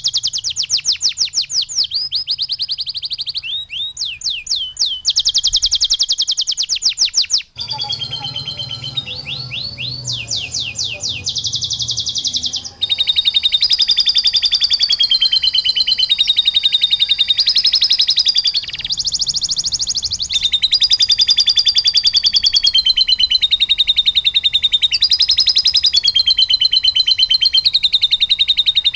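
Domestic canary singing long, rapid trills of repeated high notes, a masteran song filled with lovebird-like phrases. The song switches abruptly to a new phrase several times, as if edited together.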